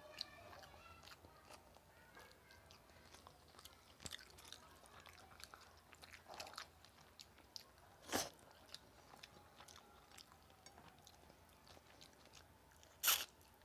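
Close-miked chewing of rice and chicken curry, with many small wet clicks of the mouth. Two louder, brief sharp noises come about 8 and 13 seconds in.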